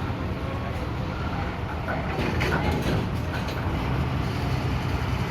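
Heavy vehicle engine running with a steady low rumble, settling into a steady hum about four seconds in, with scattered brief clatter and voices in the middle.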